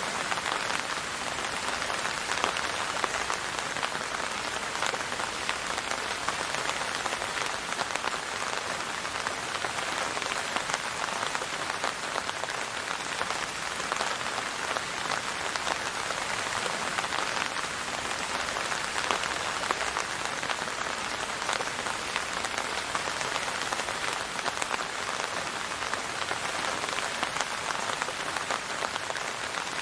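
Steady rain falling on a surface: an even, unbroken hiss full of fine drop patter.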